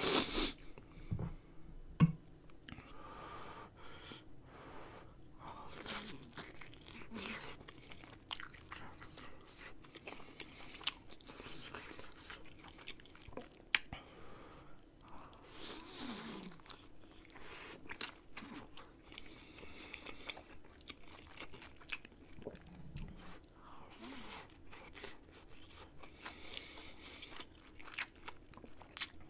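Close-miked mouth sounds of a person chewing and biting dumplings and rice from a bowl of rice cake dumpling soup, in repeated wet chewing spells. There is a loud burst right at the start and a few sharp clicks.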